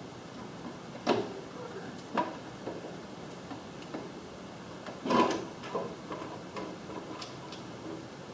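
Scattered clicks and knocks of garage door opener parts and cover being handled during reassembly, with two sharp knocks in the first couple of seconds and the loudest cluster about five seconds in.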